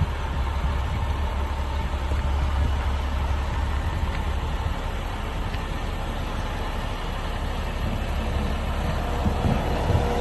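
Garbage truck engine running steadily with a low rumble.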